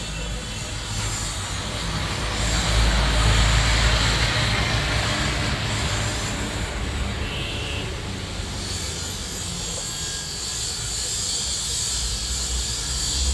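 Motor vehicle engine rumble with road noise, growing louder over the first few seconds and then easing off.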